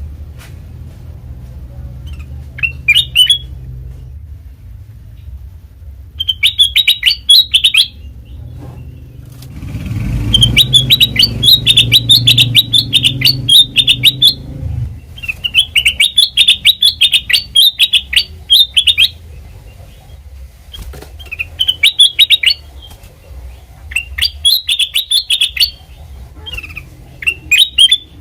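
Kutilang emas (a bulbul) singing: seven phrases of rapid, high chirps with short pauses between them. A low rumble underlies the longest phrase, about a third of the way in.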